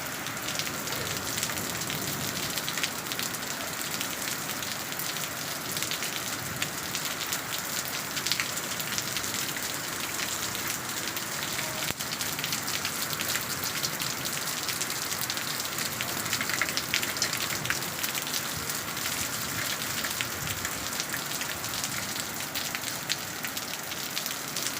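Steady rain falling, with a dense patter of individual drops hitting.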